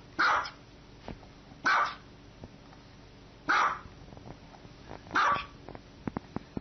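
Small dog barking four times, short single barks spaced about one and a half seconds apart.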